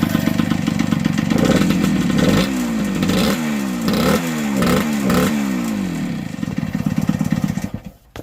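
1978 Yamaha DT100's small two-stroke single-cylinder engine running, revved up and down five or so times in quick succession, then cutting off suddenly near the end. The owner says right after that something is wrong with the carburetor.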